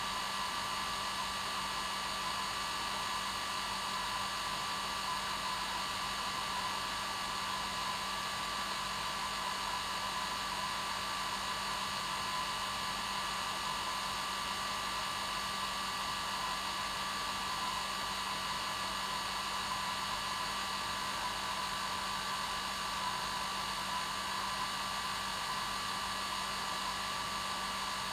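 Electric hair dryer running steadily, a constant whoosh of air with a steady motor hum and whine that does not change.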